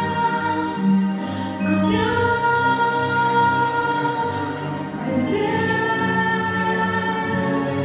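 Female vocals singing a slow pop song over a backing track, holding long notes that change pitch every second or two.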